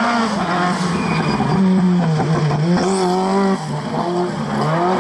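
Rally car engine at high revs, its pitch rising and falling as the throttle is worked through a corner. The level drops briefly about three and a half seconds in.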